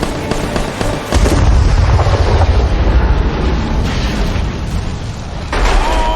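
A heavy explosion goes off about a second in and rumbles for several seconds, with a film score underneath; near the end come high, wavering, rising-and-falling tones.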